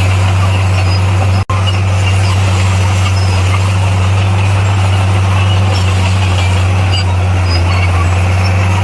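Heavy diesel construction machine engine running steadily with a deep, even drone. The sound cuts out for an instant about one and a half seconds in.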